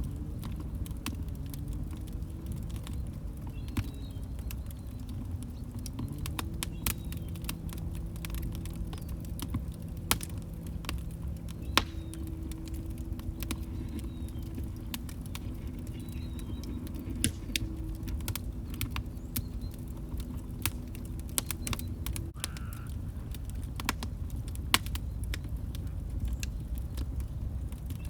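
Wood fire burning in a fireplace: irregular sharp crackles and pops over a low, steady rumble of flame. A faint low hum runs underneath and stops about two-thirds of the way through.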